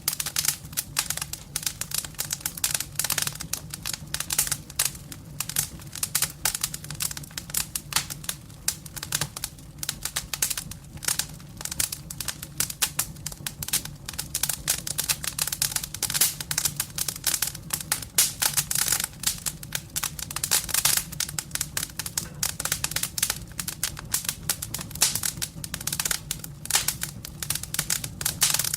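Wood fire crackling in a fireplace: dense, irregular pops and snaps over a low, steady rumble.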